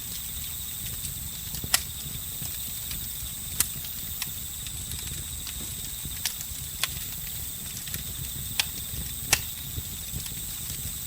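Campfire crackling, with a sharp pop every second or two over a low steady rumble of the burning wood, while crickets and other insects trill steadily at a high pitch.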